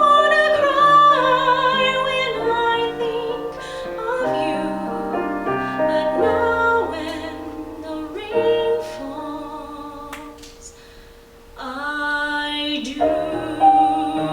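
A woman singing a musical-theatre song with live piano accompaniment. About ten seconds in, the voice drops out for a moment and the piano plays softly alone, then the voice comes back in.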